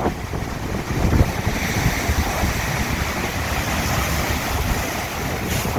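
A big sea wave breaking on the rocky shore: the crash builds to its loudest about a second in, then runs on as a long rushing wash of surf, with wind buffeting the microphone.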